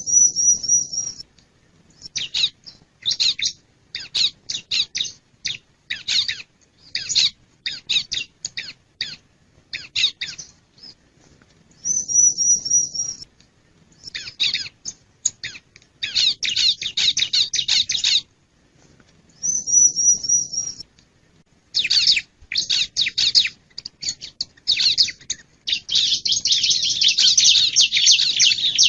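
Ciblek (bar-winged prinia) singing: runs of sharp, high chirping notes with brief gaps. Three times the song breaks into a short, high, evenly repeated trill, and near the end comes a long, dense run of rapid chirps.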